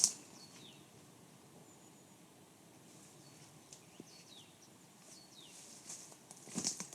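Small birds calling in the woods: a few short, high, downward-slurred notes spaced through the quiet. A sharp click at the very start and a brief crackle or rustle near the end.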